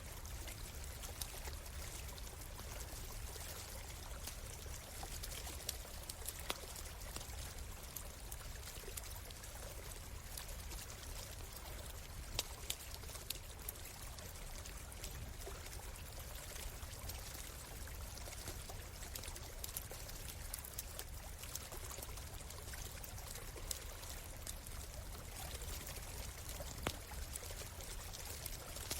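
A stream running steadily, with a campfire crackling in short, scattered pops over it.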